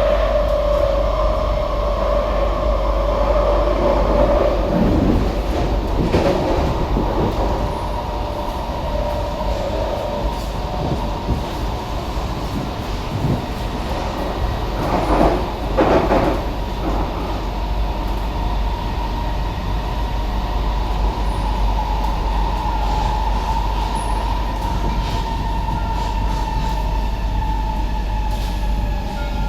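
SMRT C151B metro train running along the track: a steady rumble of wheels on rail under the whine of the traction motors. A few brief louder squeals or scrapes from the wheels come about 5 seconds in and again around the middle.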